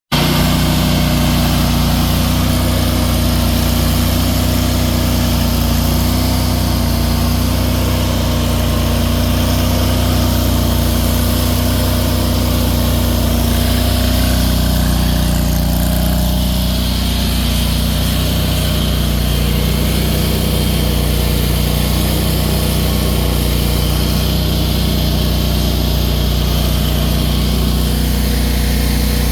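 AGT MY50 mini excavator's engine running steadily, with its cooling fan reversed to blow the opposite way. The engine note shifts slightly about halfway through.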